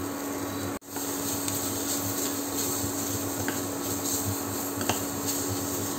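Onions and spices frying in oil in a kadai: a steady sizzle with a few light ticks of a spoon stirring, over a steady low hum. The sound cuts out briefly under a second in.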